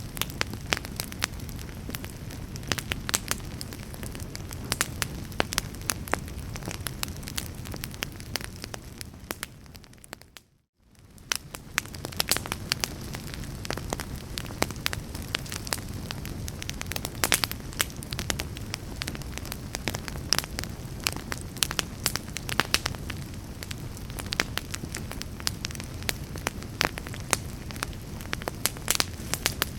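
Wood fire burning in a fireplace: a steady low rumble with many sharp, irregular crackles and pops. About ten seconds in, the sound fades to near silence for a moment and then fades back in, as at the join of a looped recording.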